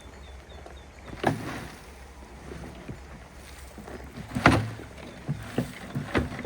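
A handful of irregular knocks and thuds from hand-tool work, the loudest about four and a half seconds in, over a low wind rumble.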